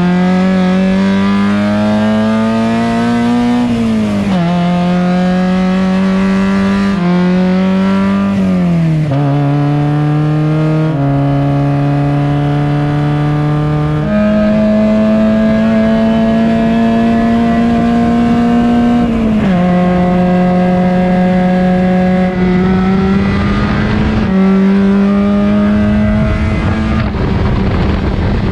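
Exomotive Exocet race car's Miata-based four-cylinder engine running hard at the track, its note climbing steadily through each gear and dropping sharply at the shifts, several times over.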